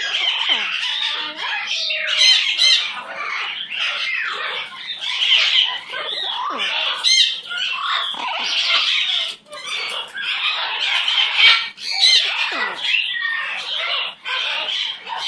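Amazon parrot chattering and squawking almost without pause, a busy stream of squeaky calls with many quick pitch slides, broken only by a couple of short gaps.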